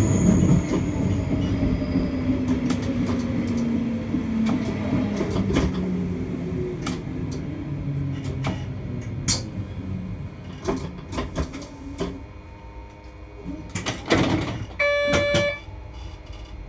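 Train slowing to a stop at a station platform: the running rumble and a motor whine fall in pitch and fade as it brakes, with scattered clicks from the wheels and track. Near the end there is a brief hiss, followed by a short electronic beep.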